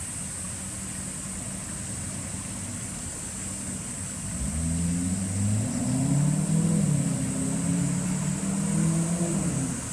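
A steady engine hum, joined about four seconds in by a louder engine note that rises and falls in pitch for several seconds before cutting off just before the end.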